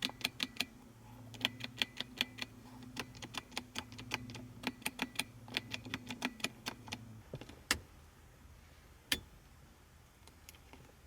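Rapid, uneven runs of sharp clicks inside a 1984 Mercedes-Benz 500SEL, over a low steady electric hum that cuts off about seven seconds in, followed by two single louder clicks.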